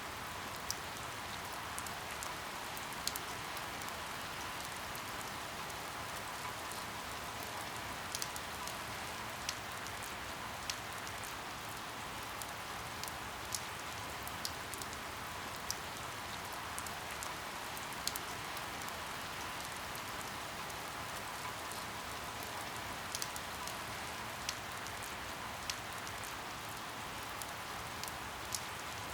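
Steady rain falling, an even hiss with scattered sharper drop ticks every second or so.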